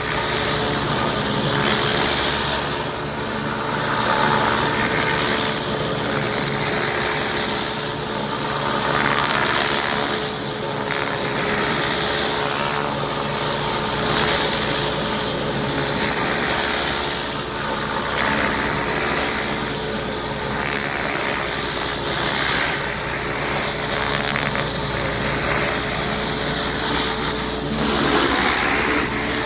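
Pressure-washing rig's engine running steadily under a loud hiss of water spray. The spray noise swells and fades every second or two as it sweeps across the surface.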